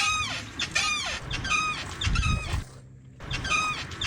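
Rear suspension of a BSE Z5 enduro motorcycle squeaking as it is pumped up and down: a high, pitched squeak with each stroke, five in all, about one every 0.7 s, with a dull thump under each and a pause near three seconds in. The squeak comes from a dry rubber silent-block bushing at the upper shock mount that lacks grease.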